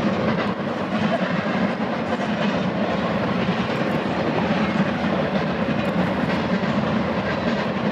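Double-stack container freight train rolling past, a steady rumble of wheels on rail.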